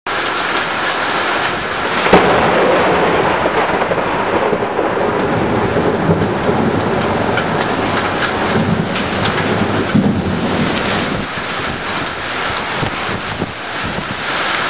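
Heavy rain pouring in a thunderstorm, with a sharp crack of thunder about two seconds in that rolls into a low rumble.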